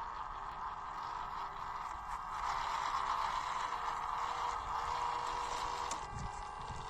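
Small RC crawler's electric motor and gearbox whirring steadily as the truck drives, getting louder about two and a half seconds in, with a sharp knock and a couple of low thuds near the end.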